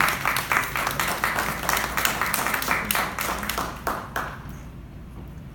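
Audience applauding, the clapping thinning out and dying away about four seconds in, leaving a low room hum.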